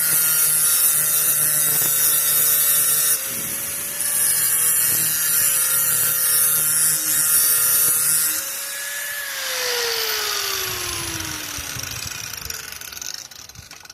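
Electric grinder running, grinding the metal edge of a power rake blade in bursts of loud high hiss. About nine seconds in it is switched off and winds down with a falling whine.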